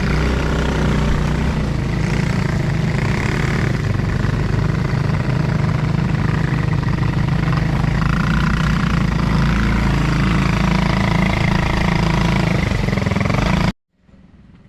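ATV engine running steadily while riding, with a loud low engine drone and noise over it; it cuts off suddenly near the end.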